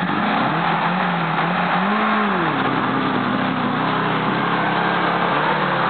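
Suzuki Samurai's four-cylinder engine pulling through mud. The revs rise about two seconds in, then ease back to a steady lower note.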